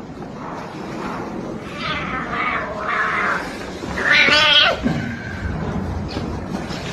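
Cat meowing and yowling in drawn-out calls, the loudest a wavering yowl about four seconds in.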